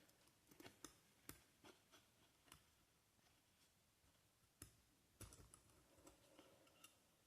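Faint, scattered light clicks and taps of a wire being threaded through the net loops of a snooker table pocket bag.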